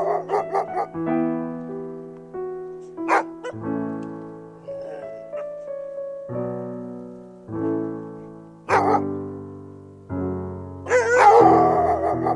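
Dog barking over piano music: a single bark about three seconds in, another near nine seconds, and a longer, louder bout of barking near the end.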